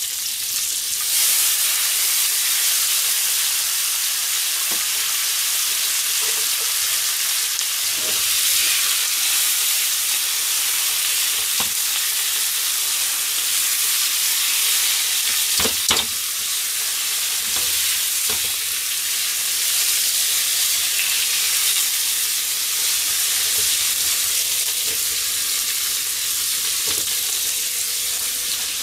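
Potatoes, sausages and green beans frying in oil in a non-stick pan: a steady sizzling hiss that grows louder about a second in. A few short knocks come as the food is stirred with chopsticks.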